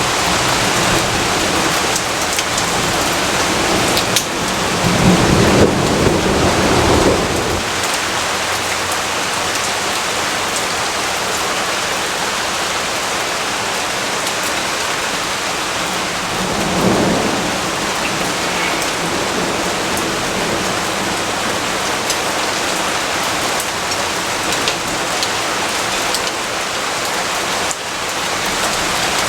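Steady heavy rain falling, with a rumble of thunder rolling in about five seconds in and a shorter, weaker rumble around seventeen seconds.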